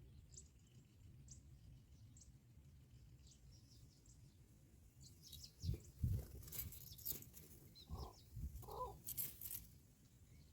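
Bar-winged prinias at the nest: faint, thin high chirps. About halfway in comes a burst of rustling and knocks with a few short lower calls, then it settles again.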